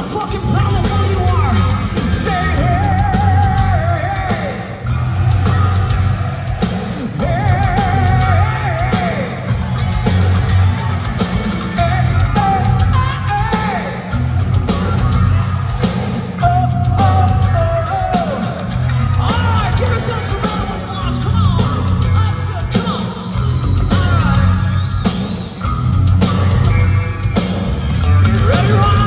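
Hard rock band playing live through a concert PA: pounding drums and bass, distorted electric guitars and a sung lead vocal line.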